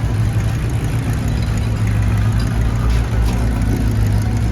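An engine running at a steady idle, a constant low hum that does not rise or fall.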